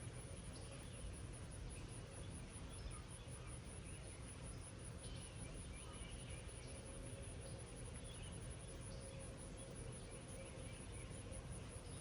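An insect's continuous high-pitched trill, pulsing rapidly, over a soft even hiss of light rain and a low steady rumble. A few faint short bird chirps come and go.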